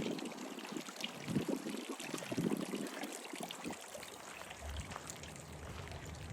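Running, splashing water, with small ticks through it; a low rumble comes in about two-thirds of the way through.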